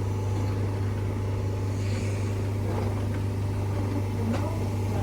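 Class 319 electric multiple unit pulling out of the station, a steady low hum with several held tones over it.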